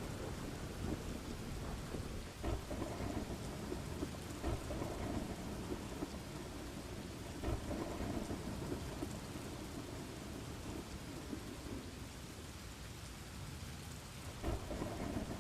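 Steady rain with low rolling thunder rumbles that swell up a few times.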